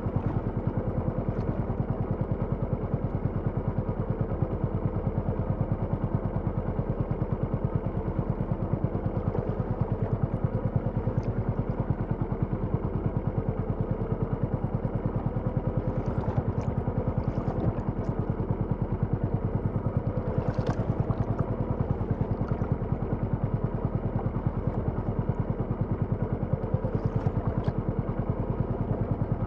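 A small engine running steadily at a constant speed, with a fast, even firing pulse. A few faint short clicks sound over it about halfway through and again near the end.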